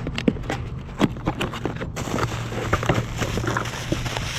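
Irregular clicks, taps and rustles of a package and its contents being handled, as aftermarket side mirrors are unpacked, over a steady low hum.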